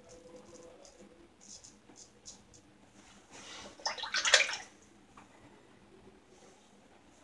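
Faint short scrapes of a shavette razor on stubble, then about a second of splashing water a little past three seconds in, as from rinsing the razor.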